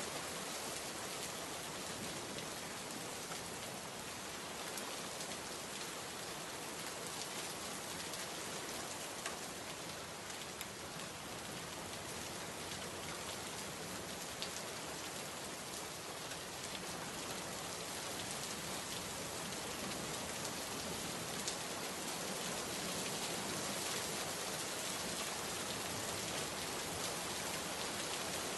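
Steady rainfall, an even hiss, with a few sharper single drop ticks standing out now and then.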